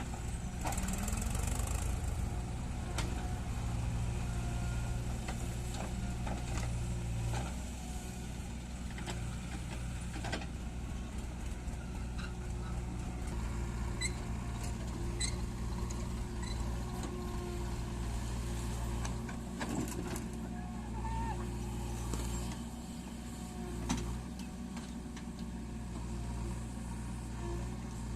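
HMT tractor's diesel engine running steadily, its note changing about seven and a half seconds in, with scattered clicks over it.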